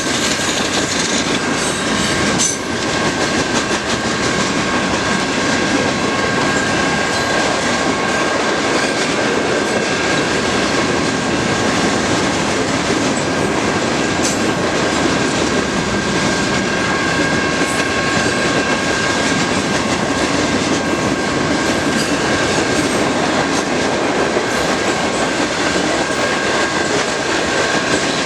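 Norfolk Southern mixed freight train rolling past, its cars clattering steadily over the rails, with a steady high-pitched tone running throughout and a single knock about two and a half seconds in.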